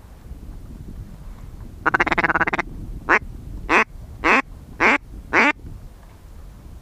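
Loud duck quacking: a quick rattling chatter about two seconds in, then five evenly spaced quacks, a little over half a second apart.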